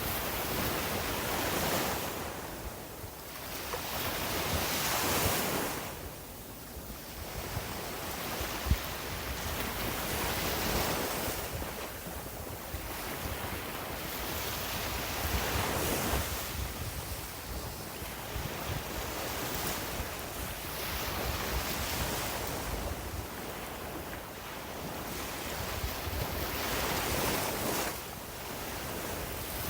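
Sea waves washing up on a beach, the surf swelling and ebbing every few seconds, with wind rumbling on the microphone. A single brief thump about nine seconds in.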